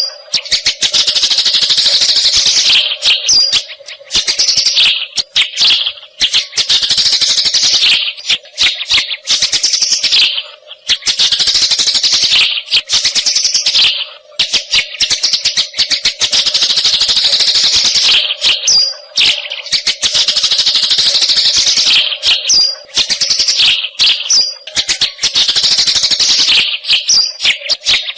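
Eurasian tree sparrows chattering in dense, rapid runs of high chirps, broken by brief pauses every few seconds, as in a recording for tutoring songbirds.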